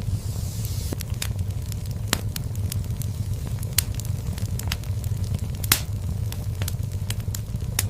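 Wood fire burning in a fireplace: a steady low rumble of flame under frequent crackles and sharp pops. Two pops stand out, a little before halfway and about three-quarters of the way through.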